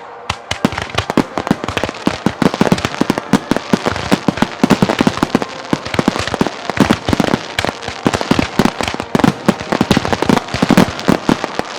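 Fireworks display: a dense, continuous barrage of shell bursts and crackling, several sharp bangs a second, growing busier after about two seconds.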